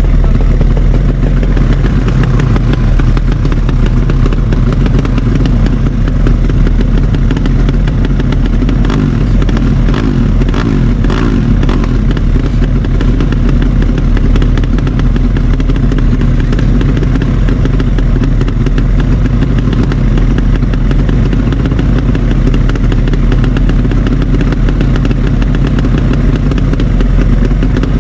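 Drag-racing motorcycle engines running loudly and steadily, with a cluster of sharp crackles about ten seconds in.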